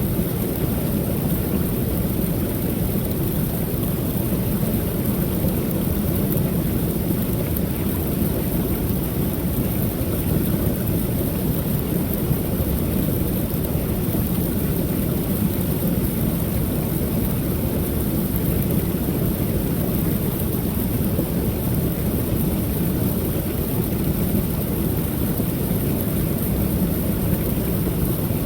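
Creek waterfall pouring steadily: a continuous deep rush of falling water.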